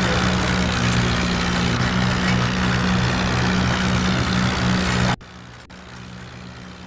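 Tractor diesel engine running steadily with a low, even drone, then cut off suddenly about five seconds in, leaving a much quieter background.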